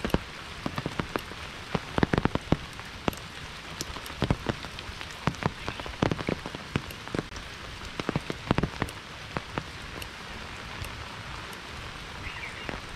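Monsoon rain falling steadily as an even hiss, with big drops tapping irregularly and loudly on a nearby surface.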